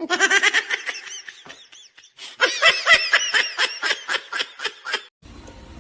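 High-pitched, rapid laughter in two bouts of quick rhythmic pulses, about six a second, with a short break near two seconds. It cuts off abruptly about five seconds in.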